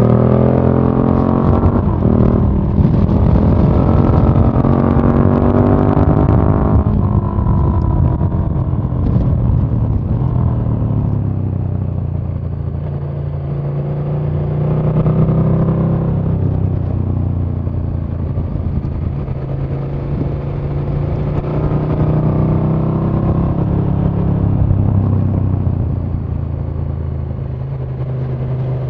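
KTM 1290 Super Duke R's V-twin engine heard onboard while riding: the revs climb for the first several seconds, drop sharply about seven seconds in, then the engine runs at lower revs with gentle rises and falls.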